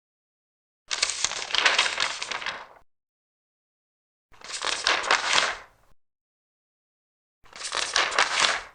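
Large paper pages being turned, three times, each turn a crackling rustle lasting about one and a half to two seconds, with silence between turns.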